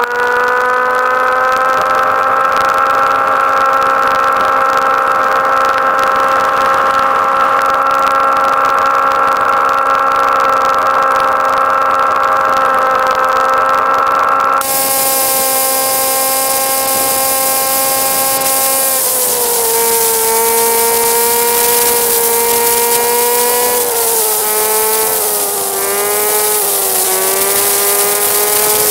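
Honda Grom MSX125's single-cylinder 125 cc engine running under load at steady revs. About two-thirds of the way through its pitch drops, then rises and falls several times as the throttle is worked. A steady hiss comes in suddenly about halfway through.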